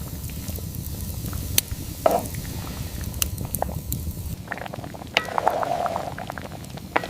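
A low rumbling noise, then about four seconds in a change to bubbling with many small irregular clicks and crackles.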